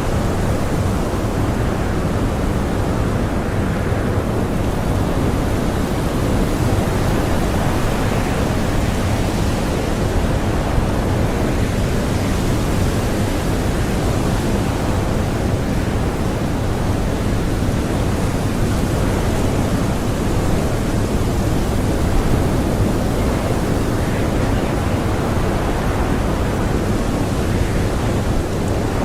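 Blizzard wind blowing steadily: a constant, even rush with small swells and no whistling tones.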